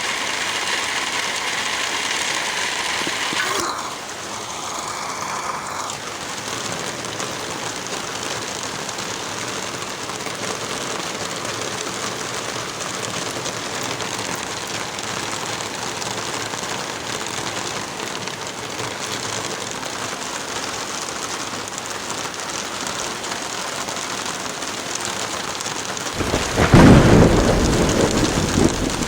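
Heavy rain falling steadily, with a faint steady hum that stops a few seconds in. Near the end comes a loud, low rumble of thunder, the loudest sound in the stretch.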